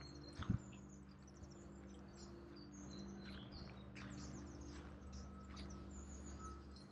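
Small songbirds chirping and calling in the trees, many short high chirps, faint over a low steady hum. A single soft thump about half a second in.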